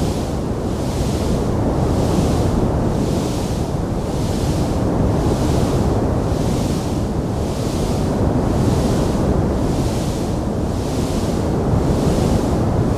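Wood fire burning in a fireplace: a steady low roar with a hiss that swells and fades about once a second, without distinct sharp crackles.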